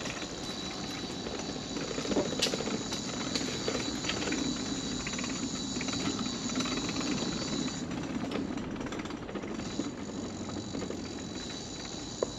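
A mobility scooter rolling along a wooden boardwalk, its wheels rattling and knocking steadily over the planks, with a few louder clicks.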